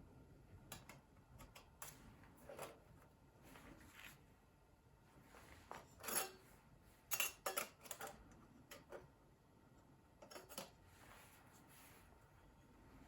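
Light metal clicks and clinks from a thin titanium mini fire stand being handled, its hinged panels knocking together. The clicks come singly and in small clusters, with the loudest run about six to eight seconds in.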